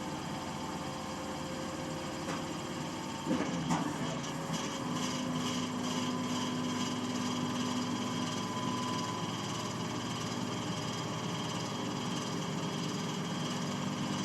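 Baler running through its cycle: a steady mechanical running noise, two sharp knocks a few seconds in, then a steady hum with quick, even ticking for several seconds.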